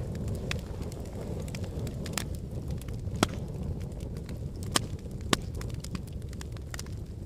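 Wood fire of burning logs in a fireplace: a steady low rumble of flames with irregular crackles and sharp pops, the loudest snaps about three, five and five and a half seconds in.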